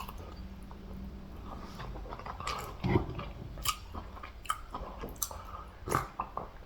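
A person chewing food close to the microphone, with wet smacking and clicking mouth sounds at an irregular pace. The louder smacks come about three and six seconds in.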